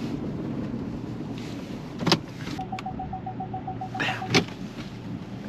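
Pickup truck running with its engine idling; a door clicks open about two seconds in, a rapid door-open warning chime beeps for about a second, then the door knocks shut about four seconds in.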